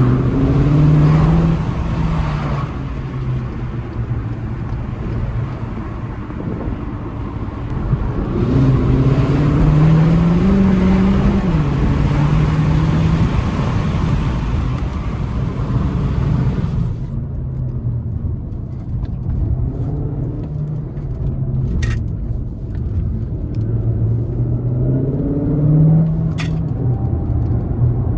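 Cupra Formentor e-Hybrid 245's turbocharged 1.4-litre four-cylinder engine under way, its pitch rising and falling as it accelerates and eases off, over a rushing road and wind noise that drops away about two-thirds of the way through. Two sharp clicks sound near the end.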